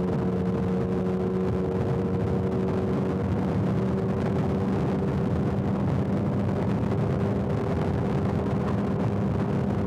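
Motorcycle engine running steadily at a constant cruising speed on a highway, its pitch holding level, with wind and road noise around it.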